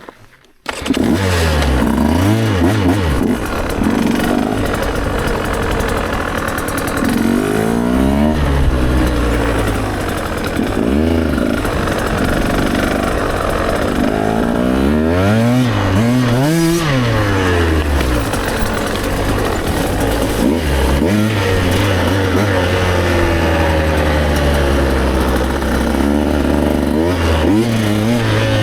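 Engine of a 150 cc enduro motorcycle being ridden, repeatedly revving up and dropping back as the rider works the throttle and gears. It sets in suddenly just under a second in, and the pitch rises and falls again and again, with a steadier stretch near the end.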